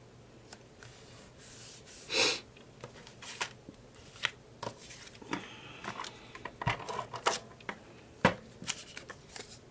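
Printed cardstock and paper pieces being handled: scattered rustles, slides and light taps, with a louder rustle about two seconds in and two sharp taps later on.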